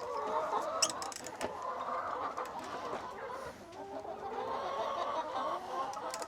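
A flock of chickens clucking, many hens' calls overlapping continuously, with a few sharp clicks in the first second and a half.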